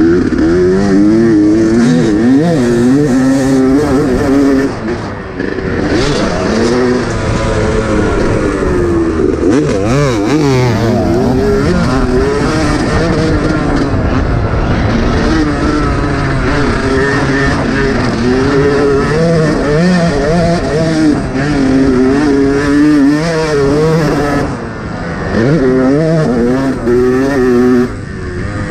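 Yamaha YZ125's two-stroke single-cylinder engine revving hard under load. Its pitch keeps rising and falling as the throttle is worked and the gears are changed, with brief drops off the throttle several times.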